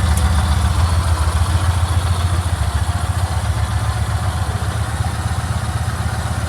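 Yamaha MT-01's large air-cooled V-twin idling with a steady low, lumpy pulse, settling a little quieter over the first couple of seconds.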